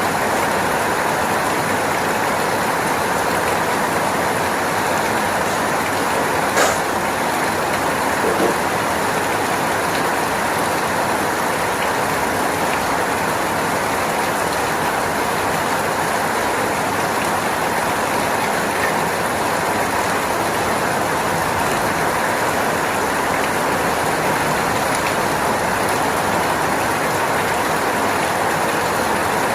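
Steady rain falling, an even hiss that does not change, with two brief ticks about seven and eight and a half seconds in.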